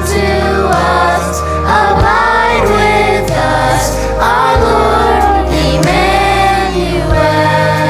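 Children's choir singing a Christmas hymn over steady instrumental accompaniment.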